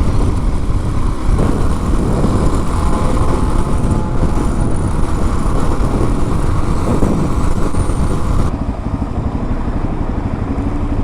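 Suzuki DR-Z400S single-cylinder dual-sport motorcycle running at road speed, its engine noise mixed with wind rush on the rider's microphone. The upper rushing eases about eight and a half seconds in.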